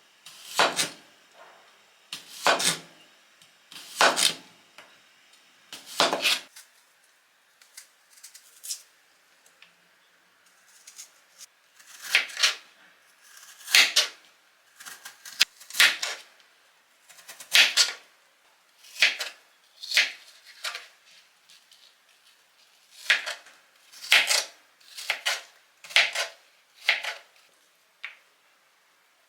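Dishes and utensils clinking and clattering, a sharp clack every second or two with short pauses between.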